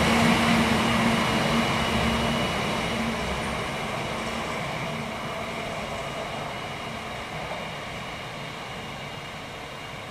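Shinkansen high-speed train passing on the through track and running away into the distance, its rushing and rumbling noise fading steadily. A low hum drops out after about three seconds.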